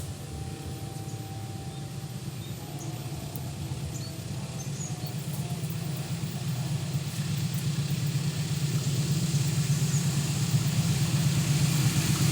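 Approaching train: a low engine rumble that grows steadily louder.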